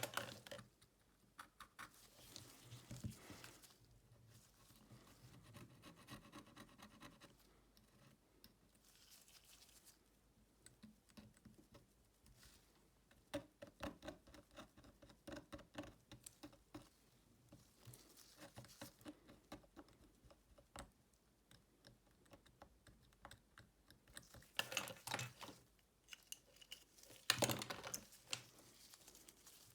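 Faint, scattered clicks, taps and scratches of small tools and fingers working on a smartphone, with two louder bursts of scraping and clicking near the end.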